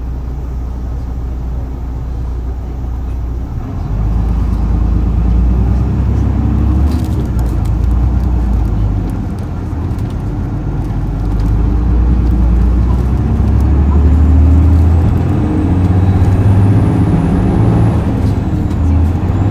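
Isuzu Erga city bus's turbocharged 7.8-litre inline-six diesel pulling hard under acceleration, heard from the rear seat over the engine. The engine drone steps up about four seconds in, eases briefly around ten seconds in, then climbs again. A high turbo whistle rises in pitch and cuts off shortly before the end, then starts again.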